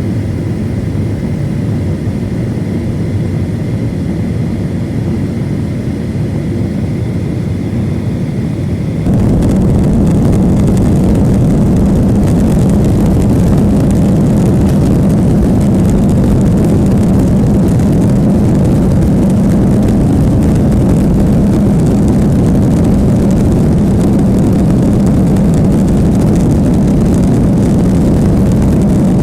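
Boeing 737 jet engines and rushing air heard from inside the passenger cabin around takeoff, a steady loud drone. About nine seconds in, the sound jumps abruptly louder and brighter and then holds steady.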